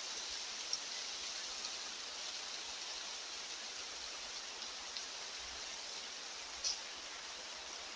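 Steady, even outdoor ambient hiss of a mountainside, with a few faint short ticks; the clearest comes about two-thirds of the way through.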